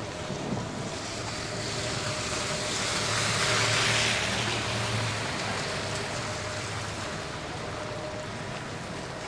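A road vehicle passing on a slushy city street. Its tyre hiss swells to a peak about four seconds in, then fades, over a steady low hum of street traffic.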